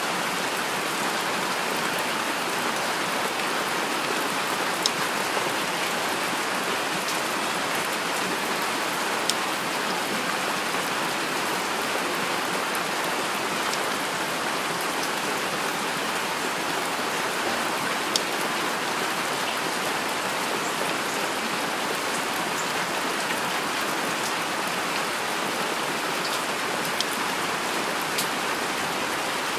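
Steady heavy rain falling, an even hiss of rainfall with a few sharper single drop hits now and then.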